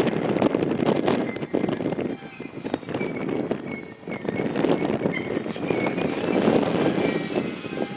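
JR Kyushu 811 series electric train rolling slowly into the platform, its wheels rumbling and knocking on the rails, with a steady high squeal of wheels or brakes as it slows.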